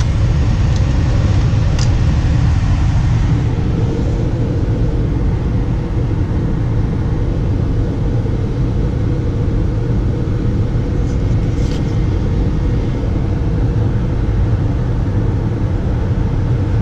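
Carrier mid-efficiency gas furnace running steadily with a loud low hum and rumble, its new control board wired in and the call for heat jumpered. A few faint clicks stand out early on and again about two-thirds of the way through.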